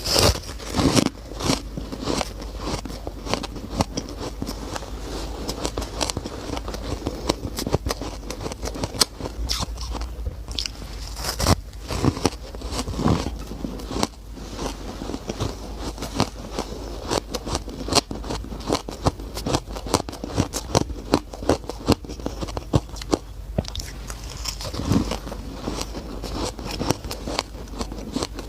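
Close-up crunching and chewing of shaved ice, with many quick, irregular crackles and squeaks as the packed ice is bitten and ground between the teeth.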